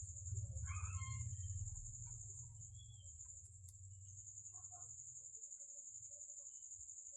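A cricket trilling steadily in the background, a high, finely pulsing tone, over a low hum, with a few faint short sounds about a second in.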